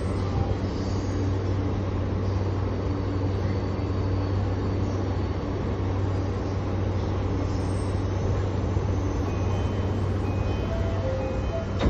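Steady low hum and running noise inside a JR Yamanote Line commuter train car, with a few short tones near the end.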